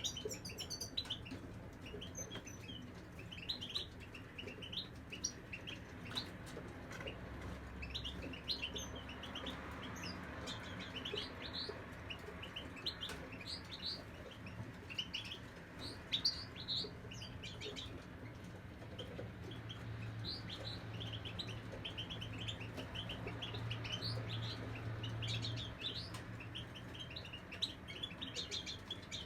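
Caged European goldfinches chirping and twittering in quick short notes, many overlapping, with a low steady hum underneath.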